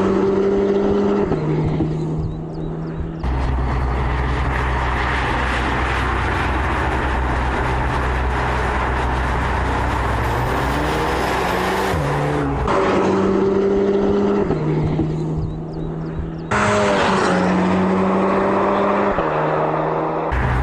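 Audi TTS turbocharged four-cylinder engine heard while driving: a steady drone in edited stretches that cut abruptly about three and twelve and a half seconds in, with engine pitch stepping between held notes and a brief rising rev near the middle.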